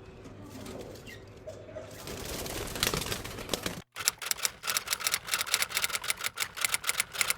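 Rapid, irregular sharp tapping clicks, about five or six a second, starting after a brief dropout about four seconds in.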